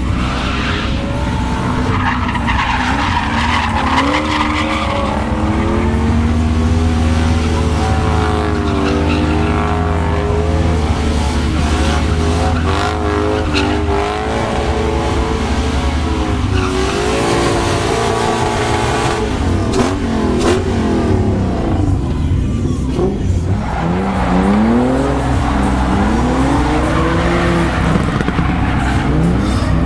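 V8-engined drift cars sliding, their engines revving up and down again and again, with tyres squealing and skidding throughout.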